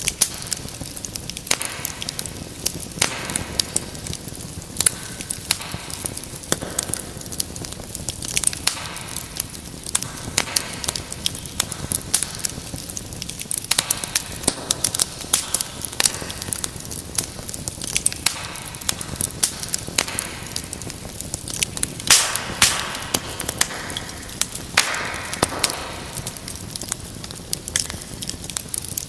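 Wood fire burning in a fireplace: a steady low rush of flames with irregular sharp crackles and pops, a little denser for a few seconds past the middle.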